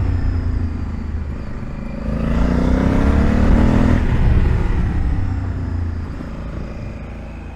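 Honda Africa Twin DCT's 1084 cc parallel-twin engine pulling hard under acceleration: the revs climb from about two seconds in, then the engine eases off and quietens toward the end, over a steady low rumble of wind and road.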